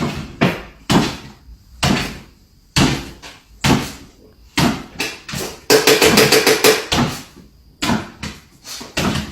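A series of sharp knocks or bangs, roughly one a second, with a quick rattling run of them a little past the middle.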